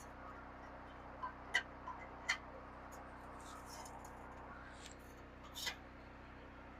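A few faint, sharp clicks and taps, scattered and irregular, over a steady low hum. They are handling noise from fitting exhaust tubing under a Jeep.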